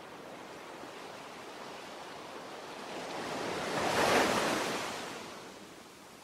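Ocean waves: a steady surf wash that swells into one wave breaking about four seconds in, then draws back.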